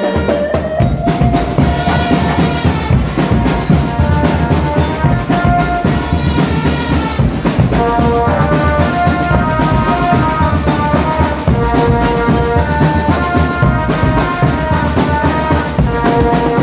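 Marching drum band playing: rapid, dense drum strokes under a melody of held notes.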